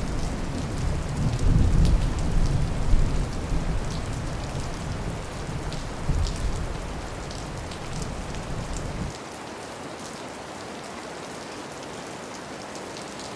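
Steady rainfall with scattered drops, under a low rolling thunder rumble that stops suddenly about two-thirds of the way through, leaving the rain alone.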